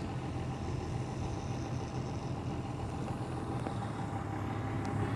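Steady low mechanical hum, unchanging, with a faint thin tone above it.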